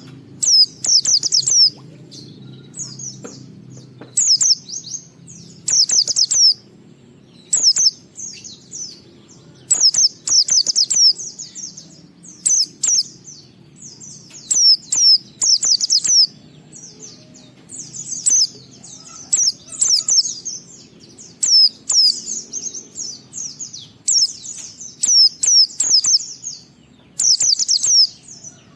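White-eye (pleci) singing in the fast twittering 'ngalas' style: short bursts of rapid high notes, each under a second long, repeated every one to two seconds over a faint low hum.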